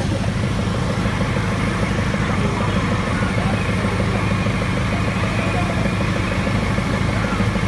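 Motor vehicle engine running steadily, a low even drone with no change in speed.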